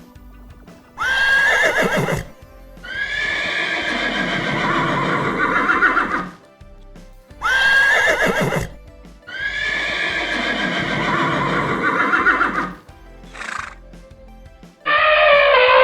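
A horse neighing, the same long whinny played twice: each starts with a sharp shrill cry, then runs into a long quavering call. A different, lower animal call begins near the end.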